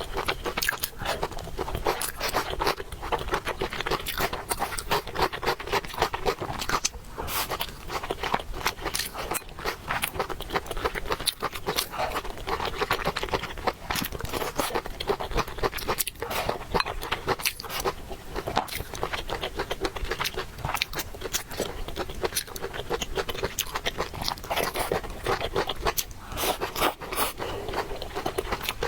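A person eating noodles: continuous chewing and mouth sounds, a dense run of small wet clicks and crunches.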